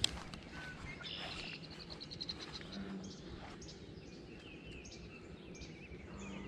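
Quiet outdoor ambience with a songbird trilling: a quick run of evenly repeated high notes about a second in. A single sharp click sounds at the very start.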